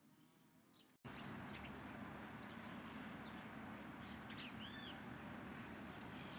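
Small birds chirping with short, high calls and a few arching whistled notes, over a steady low background rumble. The sound cuts in abruptly about a second in, where the audio changes.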